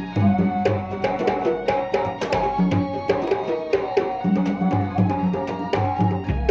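Kendang hand drums playing a fast pencak silat accompaniment pattern: rapid sharp strokes mixed with deep, pitched bass strokes, with sustained tones sounding over the drumming.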